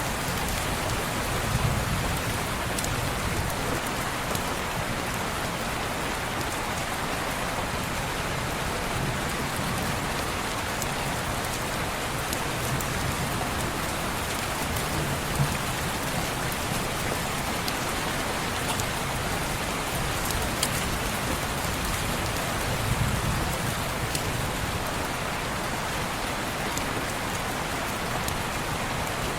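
Steady rain falling on window glass, an even hiss with scattered small clicks of drops and a few soft low rumbles.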